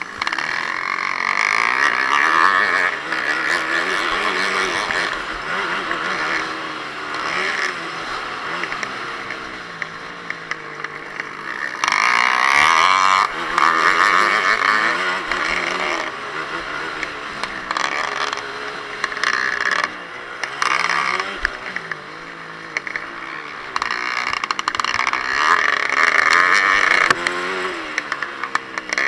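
Dirt bike engine revving up and down repeatedly as the bike accelerates and backs off along the track, heard close from the bike it is mounted on, with wind and rattle noise over it.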